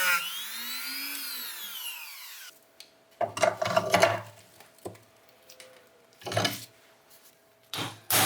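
A power tool switched off and coasting to a stop, its whine gliding and fading over about two and a half seconds. Then comes a series of short scraping and rubbing sounds of parts being worked by hand.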